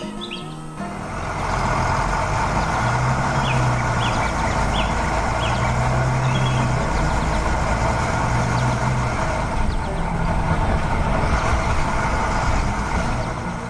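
A heavy vehicle's engine running, a loud, steady noisy sound that comes up about a second in and drops away near the end.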